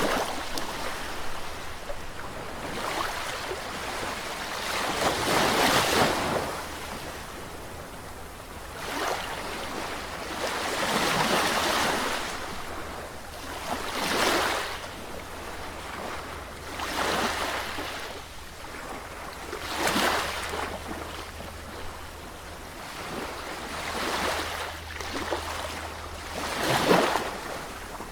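Sea waves washing in and breaking. The hiss swells into a surge every three to six seconds, over a steady low rumble.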